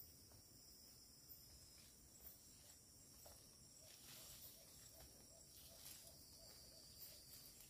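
Faint forest insects shrilling steadily at a high pitch, with a few light ticks and, about halfway through, a soft run of quick repeated chirps, several a second.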